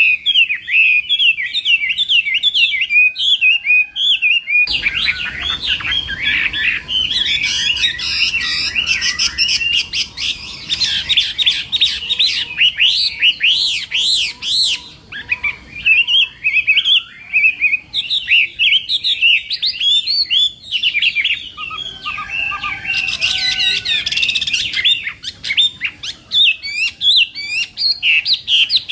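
Chinese hwamei (melodious laughing thrush) singing a long, continuous song of quick, varied whistled notes that rise and fall, with louder, fuller flurries in the middle and again near the end.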